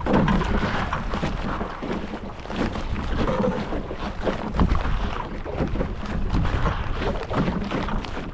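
Canoe being paddled, with water splashing and sloshing at irregular strokes under a steady low rumble of wind on the microphone.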